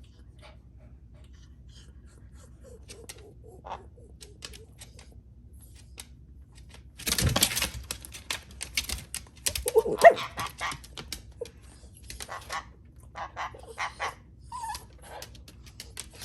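A pet dog making a run of short, sharp noisy sounds, the loudest about seven seconds in, with a brief pitched whine about ten seconds in.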